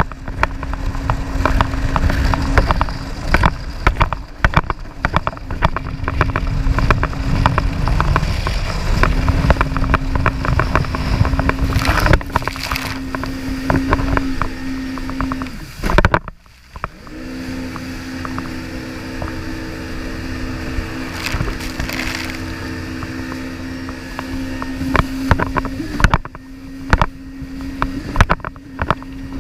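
Jet ski engine running at a steady pitch, with heavy wind buffeting and many short knocks over it. About sixteen seconds in the sound drops out briefly, then the engine tone comes back steadier and clearer, and the knocks return near the end.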